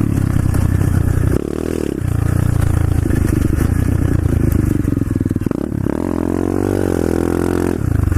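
A 125cc SSR pit bike's single-cylinder engine revving hard as the bike spins a donut, its pitch dropping and climbing back again several times.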